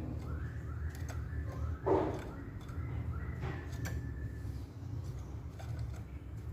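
Poksay Hongkong (Chinese hwamei) singing: a run of short whistled notes, a louder harsher call about two seconds in, then a held whistle, over scattered clicks and a low hum.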